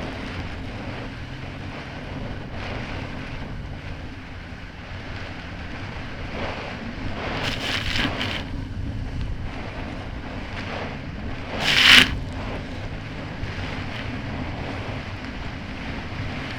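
Kawasaki Ultra 300X jet ski's supercharged four-cylinder engine running steadily under way, with wind noise on the microphone. Spray splashes as the hull slams through chop, once around eight seconds in and loudest about twelve seconds in.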